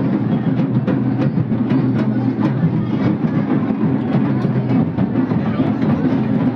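Music with steady drumming: repeated drum strokes over a dense, sustained lower accompaniment.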